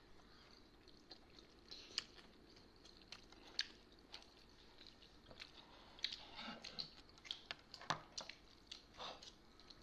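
Faint close-up eating sounds of several people chewing soft steamed buff momo dumplings. Wet mouth smacks and scattered short clicks come at irregular intervals.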